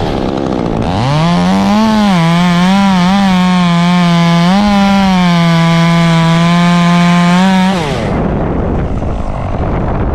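Chainsaw throttled up to full speed, its pitch dipping and wavering as it loads in the cut, then holding steady for about six seconds before the throttle is released and the pitch drops away. Wind noise on the microphone runs underneath.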